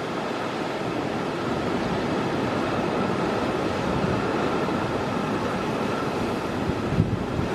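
Strong typhoon wind blowing steadily with heavy surf, the wind buffeting the microphone. A short low thump comes near the end.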